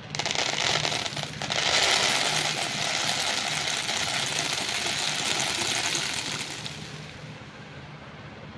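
Many small beads clattering against each other in a dense rush of tiny clicks, with a short dip a little over a second in, fading out about seven seconds in.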